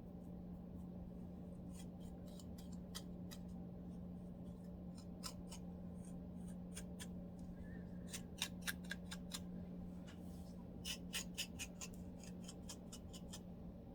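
A lice comb scratching at a dry, flaky scalp in short, sharp strokes, coming in quick flurries about eight seconds in and again near the end.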